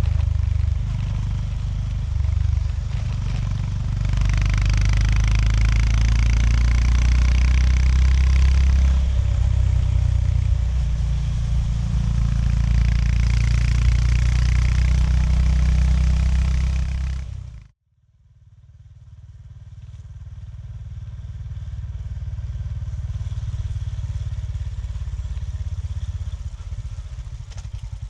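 Honda GB350S single-cylinder engine running on the move, its revs rising and falling, for about two-thirds of the time. It cuts off abruptly, then fades back in quieter with an even, rapid pulsing.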